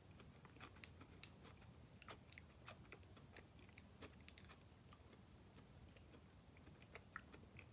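Faint chewing of a crunchy oat-and-grain biscuit with a creamy cocoa almond butter filling: soft, scattered crunches and mouth clicks.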